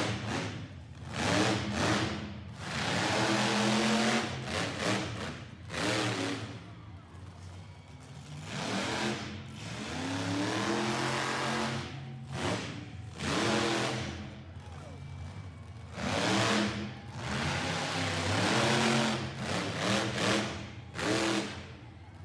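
Monster truck's fuel-injected engine revving hard over and over, its pitch climbing and falling with each burst of throttle, with short dips between surges.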